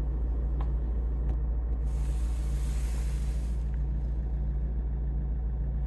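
Car engine idling heard from inside the cabin: a steady low rumble. A brief hiss rises over it about two seconds in and stops just under two seconds later.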